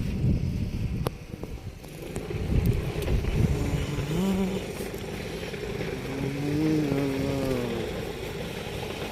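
Wind buffeting the microphone, then an engine whose pitch rises and falls twice, like a vehicle passing.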